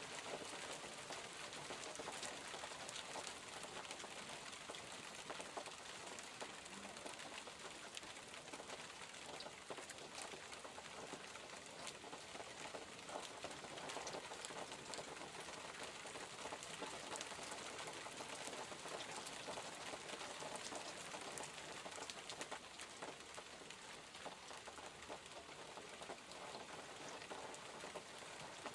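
Steady rainfall, a continuous hiss dotted with many small drop ticks.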